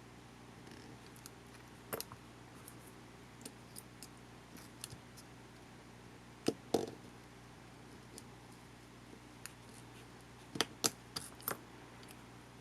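Small sharp clicks and taps of tools and small parts being handled while a digital video camera is taken apart, in a few clusters, over a steady low hum.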